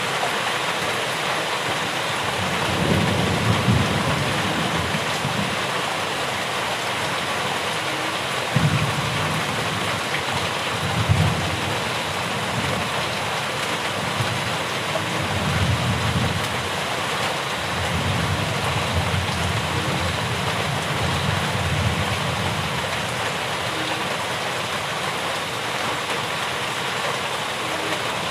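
Steady heavy rain falling, with low rolling thunder rumbling several times in the first two-thirds.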